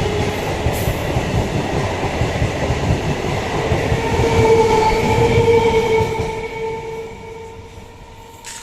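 Balurghat Express passenger train running past with a rumbling wheel noise and a steady ringing whine, loudest about five seconds in, then fading away as the train moves off.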